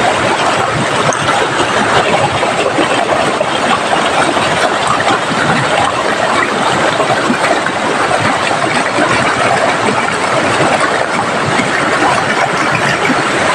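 Heavy tropical rain pouring down in a steady, loud rush.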